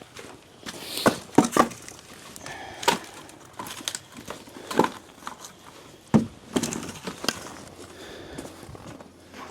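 Chunks of firewood knocking and clattering as they are handled: irregular sharp wooden knocks, about eight of them, with short quieter gaps between.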